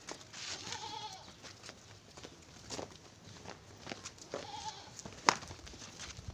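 Sojat goat kids bleating, two short calls about three and a half seconds apart, among light clicks and shuffling. One sharp click near the end is the loudest sound.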